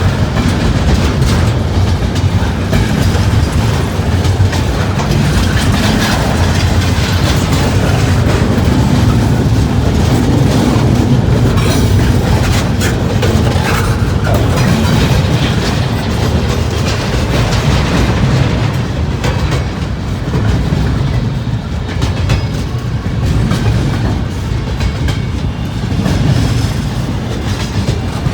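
Freight train cars rolling past, with a steady rumble and the clickety-clack of wheels over the rail joints.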